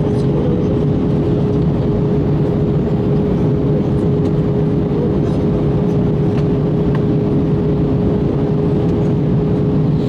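Airbus A321 passenger-cabin noise in flight: a steady rush of airflow and engine hum with one constant tone running through it.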